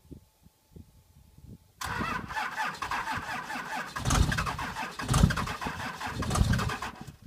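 2001 Dodge Ram's 5.9-litre 24-valve Cummins inline-six diesel cold-started at −35 °C after a week unplugged. After a couple of seconds of quiet, the starter cranks with rapid clatter, and from about four seconds in there are irregular heavy low thuds as the cylinders begin to fire. The sound cuts off suddenly near the end.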